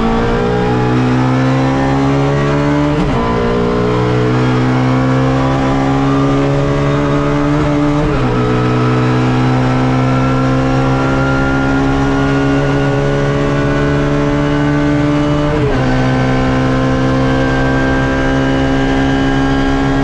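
Suzuki Swift race car's engine heard from on board at full throttle, pitch climbing steadily as it pulls through the gears. It drops sharply at three upshifts, about 3, 8 and 16 seconds in.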